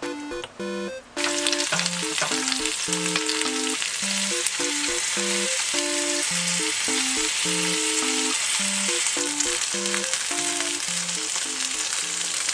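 Skewered sausages, crab sticks and green onions sizzling in hot oil in a frying pan. The sizzle starts about a second in and cuts off suddenly near the end.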